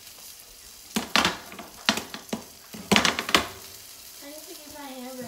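Food sizzling in a hot pan, with a quick run of loud, sharp clanks and scrapes of cookware between about one and three and a half seconds in.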